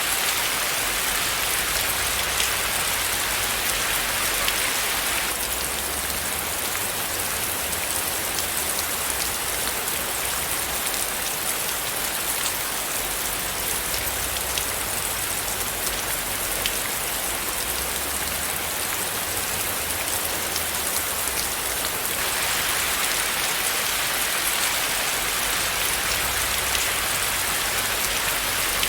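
Steady rain falling on a surface, an even hiss with fine scattered drop ticks. The hiss is a little brighter for the first few seconds and again near the end.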